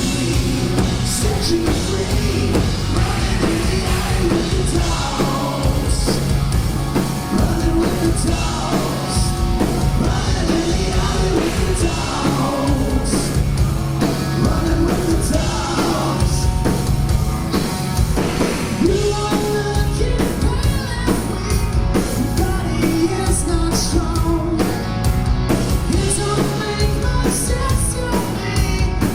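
Live hard rock band playing at full volume, with electric guitars, bass and drums under a sung lead vocal.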